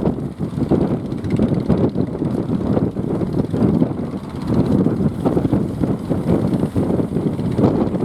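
Strong wind buffeting the microphone: a loud, gusty rumble that flutters unevenly and never settles.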